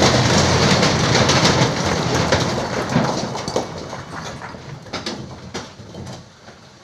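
A load of quarry rock sliding out of a tipping dump truck bed: a loud rush of tumbling stone that fades after about three seconds into scattered clatters of single rocks.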